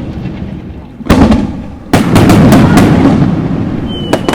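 Aerial firework shells bursting: two loud booms about a second apart, each trailing off in a long rumble with crackling, and a sharp crack near the end.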